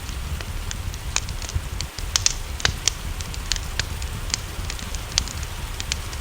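Wood fire crackling, with sharp pops at irregular intervals over a steady hiss of rain and a low rumble.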